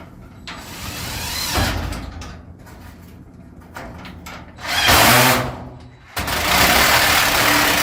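Power drill running in three bursts, driving screws through aluminum angle into a metal garage door. The second burst is short and the loudest; the last runs about two seconds.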